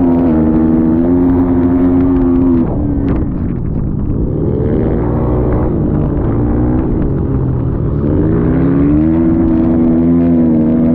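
Motocross dirt bike engine running hard at high revs. The throttle comes off about three seconds in, and the pitch drops and wavers for several seconds. Then the revs climb again and hold high near the end.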